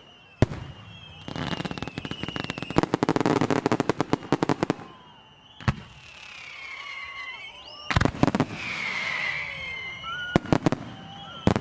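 Large professional (category F4) fireworks display: about a second in, a rapid string of bangs and crackling that lasts some three seconds, then whistling effects gliding in pitch, and single heavy shell bursts near the end.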